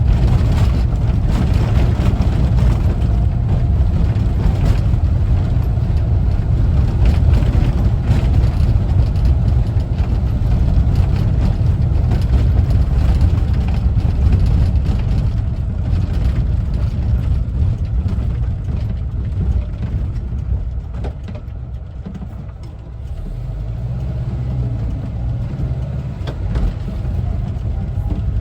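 A 1974 Volkswagen Westfalia camper on the move: the air-cooled Type 4 flat-four engine is running under way, with road noise. About three-quarters of the way through, the engine note falls off and quietens, then builds again as the van picks up.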